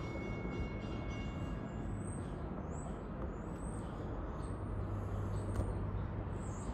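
A train's steady low rumble, with a thin whine that fades out about a second and a half in. Birds chirp over it from about two seconds in.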